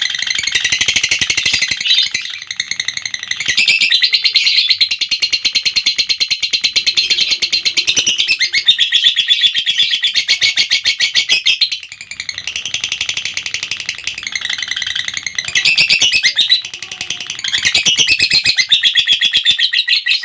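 Lovebird 'ngekek': a long, rapid chattering trill of sharp, high chirps, kept up for many seconds at a time with only a few short breaks.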